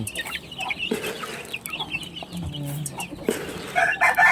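Backyard chickens clucking and peeping in short calls while feeding, with a rooster starting to crow near the end.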